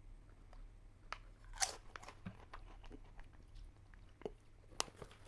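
Person biting into and chewing a crisp potato-stick snack: a few sharp, separate crunches, the loudest about one and a half seconds in and another near the end.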